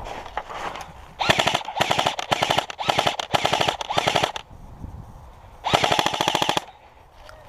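Airsoft electric rifle firing on full auto: a long run of rapid bursts lasting about three seconds with brief breaks, then a shorter burst of about a second later on.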